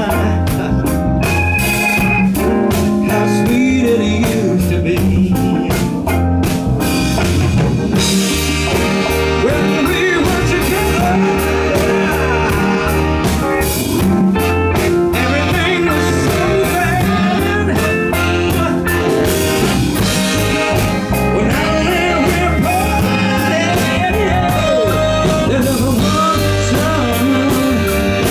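A live blues-rock band playing a song, with drum kit, bass and electric guitar, and a man singing over it.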